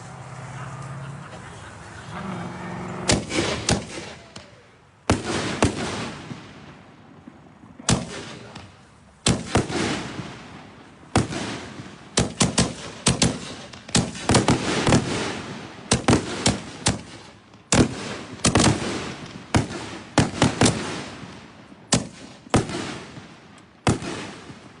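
Consumer aerial firework shells bursting one after another: sharp bangs, often two or three in quick clusters, going on for about twenty seconds.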